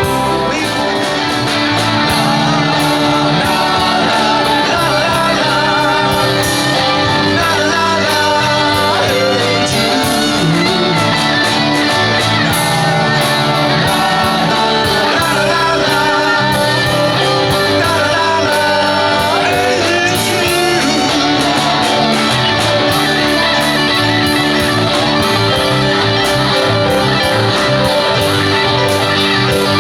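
Live rock band playing: a wavering lead line over guitar, bass and a steady beat.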